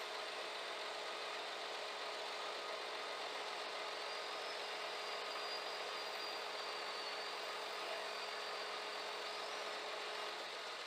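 Scania G410 truck's diesel engine running steadily at a constant speed, with a faint high whine in the middle.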